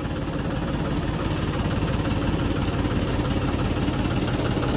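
Sonalika tractor's diesel engine running steadily at low revs, a constant, evenly pulsing rumble.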